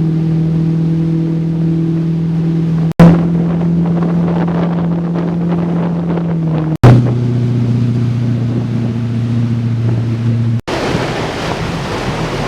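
A boat's motor running steadily at a constant pitch. The sound breaks off abruptly about 3 and 7 seconds in, and the pitch is a little lower after the second break. About 11 seconds in it gives way to wind buffeting the microphone and the rush of water.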